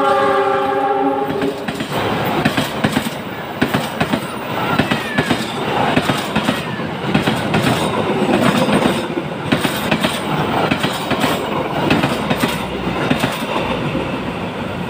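A passing train's horn sounds a multi-note chord that cuts off about a second and a half in. The clatter and rattle of its wheels over the rail joints follows as the cars go by.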